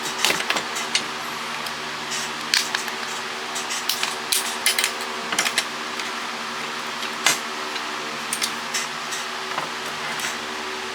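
Irregular clicks and light clatter of small plastic and metal parts being handled while cordless phones are taken apart, over a steady hum.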